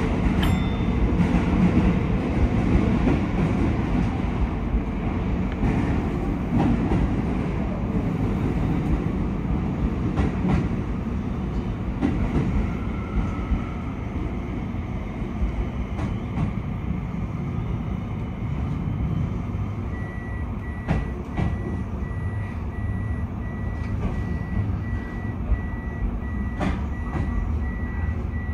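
Keio 5000 series electric train running slowly, heard from the driver's cab as a steady rumble with occasional wheel clicks over the rails. From about two-thirds of the way in, a thin electronic beep repeats steadily.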